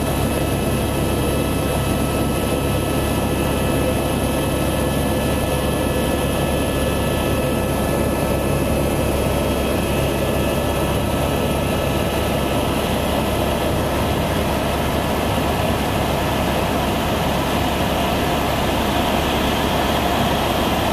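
Helicopter in flight: a steady engine whine over the low, fast pulse of the rotor. A rushing air noise grows louder over the last third.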